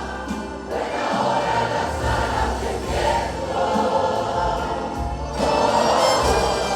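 Church choir singing a Spanish-language worship song with instrumental accompaniment, captured as a live room recording.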